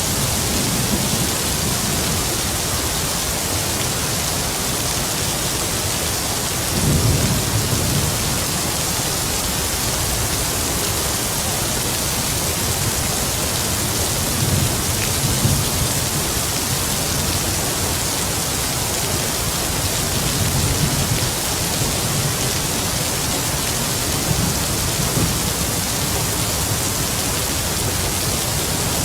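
Heavy rain falling steadily, with several low rumbles of distant thunder swelling and fading, the strongest about seven seconds in and another starting near the end.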